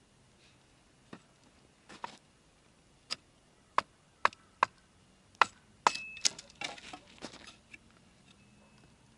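Wood fire crackling: single sharp pops about half a second to a second apart, then a quick run of crackles about six seconds in.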